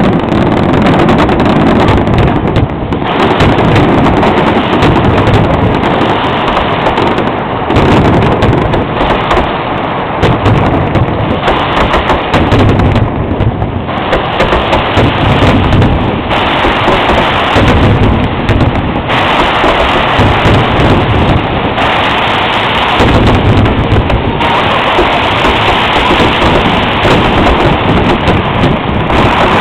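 Fireworks finale: a dense barrage of overlapping shell bursts with no break between them, very loud throughout.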